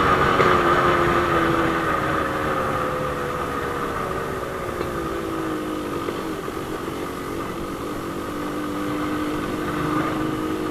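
Yamaha RX-King's 135cc two-stroke single-cylinder engine running on the road, its pitch falling slowly over several seconds as the rider eases off, then holding steady.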